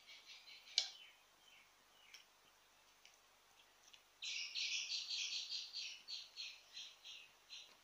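A bird chirping in a rapid series of short, high chirps, about four a second, faint at first and much louder from about four seconds in. A single sharp click comes about a second in.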